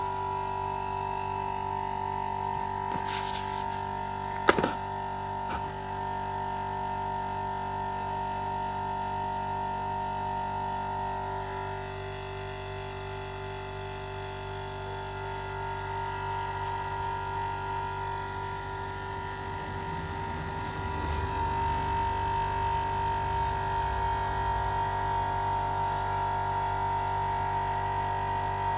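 Home-made quiet air compressor running with a steady electric hum. There is a sharp click about four seconds in, and the sound grows slightly louder around two-thirds of the way through.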